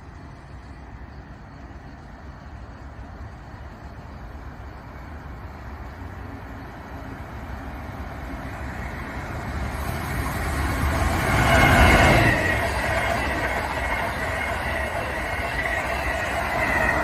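Amtrak electric trainset approaching and passing at speed: a rush of wheels on rail and air that builds steadily, is loudest about twelve seconds in as the front goes by, then keeps up as the cars pass.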